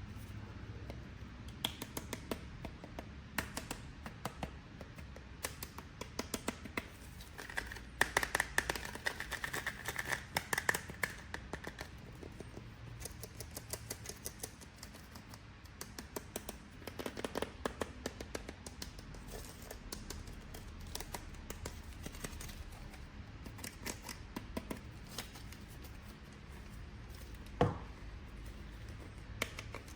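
Action figures and their packaging being handled during an unboxing: scattered clicks and taps of plastic. A stretch of rustling comes about 8 to 11 seconds in, and a single sharper knock near the end.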